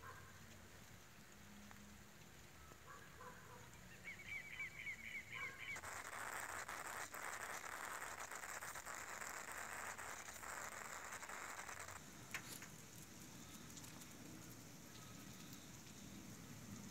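Faint outdoor ambience. About four seconds in, a bird gives a quick run of about eight short, high notes, followed by a steady hiss lasting about six seconds that stops abruptly, with a single click just after.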